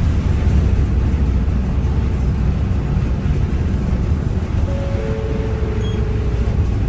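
Steady low rumble of a moving vehicle, with a faint steady tone near the end.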